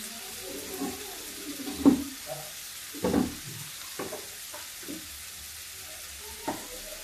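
Potatoes and spices frying in a stainless-steel kadhai, a steady faint sizzle. A few sharp knocks are scattered through it, the loudest about two and three seconds in.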